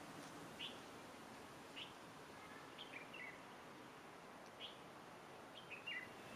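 Faint, brief chirps of small birds, about one every second, some in quick pairs, over a low steady background hiss.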